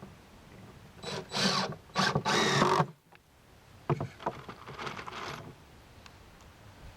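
Power drill driving screws into a wooden wall panel: two runs of just under a second each, then a few shorter, quieter bursts.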